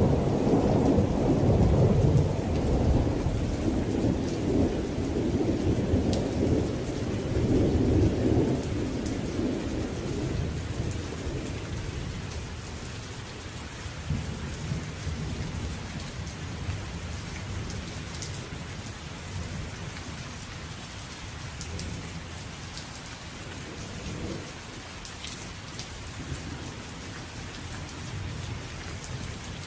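Steady rain with a long roll of thunder that rumbles over the first ten seconds or so and slowly dies away. Afterwards the rain hiss carries on alone, with scattered drop ticks and a fainter distant rumble now and then.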